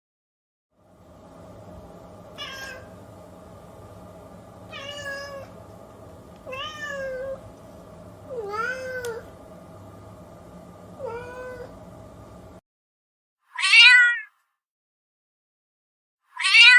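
Domestic cat meowing repeatedly: five meows over a steady background hum, then, after a short silence, two louder, clearer meows near the end.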